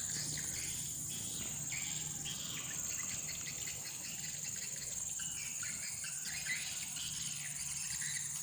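Steady high-pitched insect chorus, cricket-like, with faint scattered bird chirps over it.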